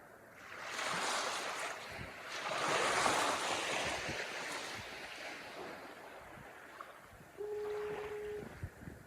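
Ocean surf: a wave breaks and washes in, swelling over the first few seconds and dying away by about six seconds in, with wind on the microphone. Near the end a steady horn tone sounds for about a second.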